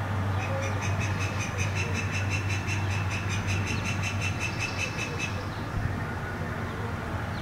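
A bird's rapid, evenly pulsed high trill lasting about five seconds, ending abruptly, over a steady low hum.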